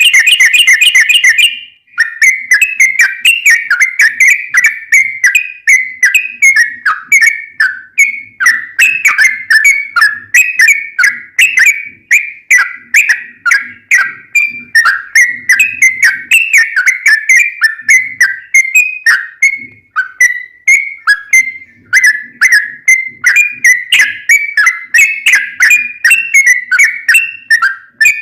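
Sooty-headed bulbul (trucukan) singing a long, rapid 'ropel' song. It opens with a fast stuttering run, then carries on with clear whistled notes, several a second, rising and falling with hardly a break.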